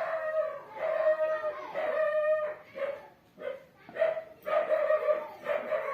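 Dog whining and howling in a run of long, high cries, broken by short pauses.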